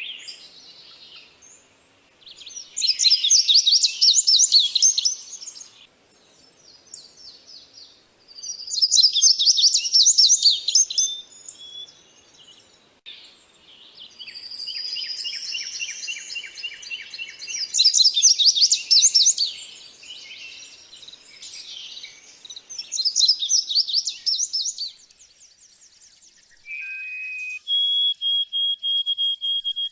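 Small songbirds singing: bursts of fast, high trills about three seconds long, repeated every five seconds or so, with a run of clear repeated whistled notes near the end.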